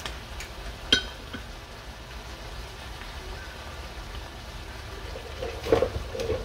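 Sliced bell peppers and onions sizzling steadily in a stainless-steel skillet. A sharp metallic clink comes about a second in, and a few louder knocks come near the end.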